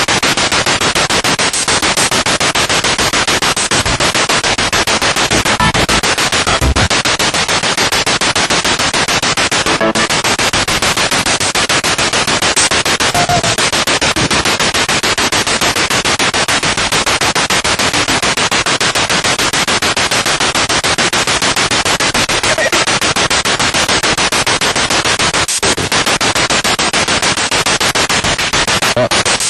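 Spirit box sweeping rapidly through radio stations: loud, continuous, choppy static broken into fast pulses, with brief faint snatches of broadcast sound.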